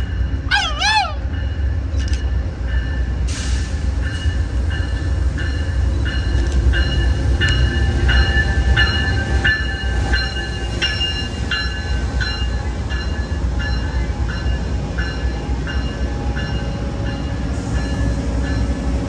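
A train rumbling steadily, with a bell ringing at about one and a half strokes a second. A short warbling tone sounds about a second in.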